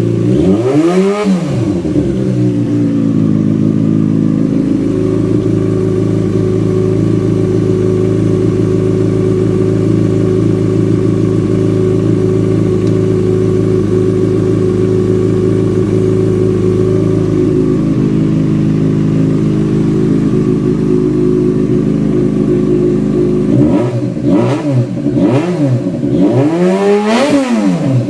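Yamaha FZ6's inline-four engine running while it warms up after a cold start. It revs up and falls back once at the start, settles into a steady idle, then takes several quick throttle blips near the end.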